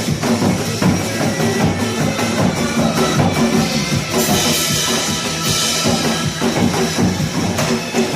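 Janggu (Korean hourglass drums) played together in a fast, driving nanta-style rhythm over recorded backing music.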